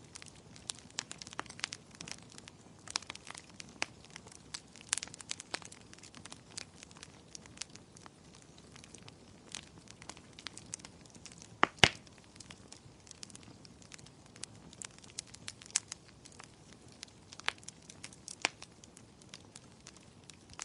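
Wood fire crackling in a fireplace: irregular sharp snaps and pops over a soft low hiss, with one louder pop near the middle.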